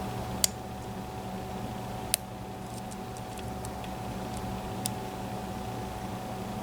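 A lock pick working the pins of a Mul-T-Lock MT5+ cylinder: a few sharp metallic clicks, the loudest about two seconds in, with fainter ticks between, over a steady low hum.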